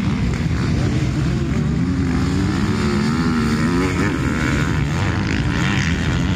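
Motocross bike engines racing on the track, their pitch rising and falling as the riders work the throttle.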